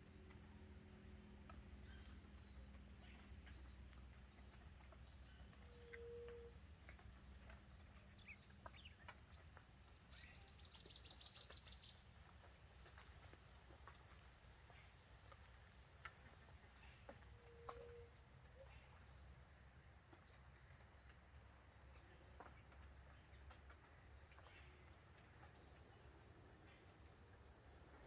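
Crickets and other insects chirring: a steady high-pitched buzz with a second chirp pulsing about once a second, and a short fast rattling trill near the middle. A brief low note sounds three times, about twelve seconds apart.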